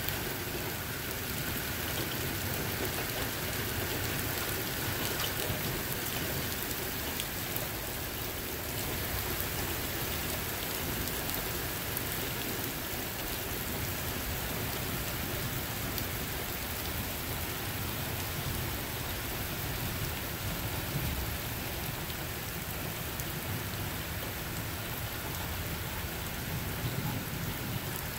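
Heavy rain falling steadily in a thunderstorm, with low rumbles of thunder swelling at times.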